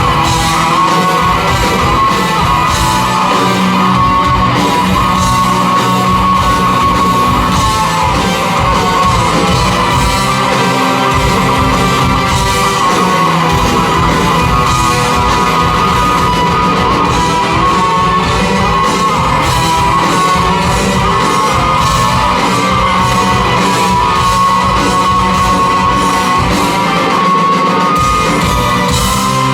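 Live rock band playing loud and unbroken through a hall's PA, with heavy drums and electric guitar, heard as an unmixed audience recording.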